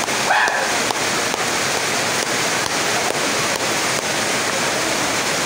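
Rain falling steadily, a dense even hiss with faint light ticks scattered through it.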